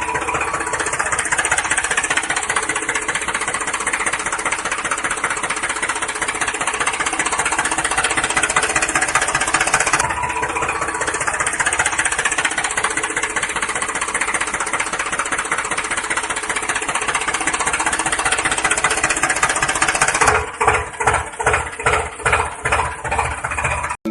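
Engine running steadily with a rapid, even chugging, broken briefly about ten seconds in. Near the end it changes to slower, pulsing chugs, about two or three a second.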